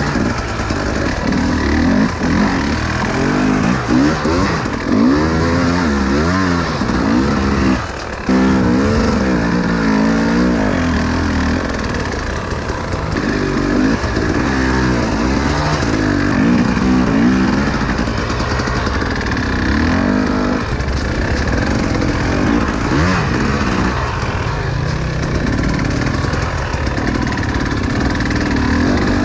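Enduro motorcycle engine revving up and down as it is ridden, its pitch rising and falling again and again; the throttle drops off briefly about eight seconds in, then picks up sharply.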